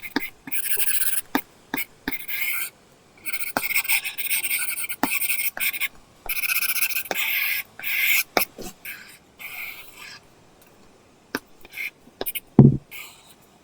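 Apple Pencil tip scratching across a paper-textured screen protector on an iPad in quick drawing strokes, with small taps of the tip between strokes. The strokes stop about ten seconds in, leaving a few taps and one low thump near the end.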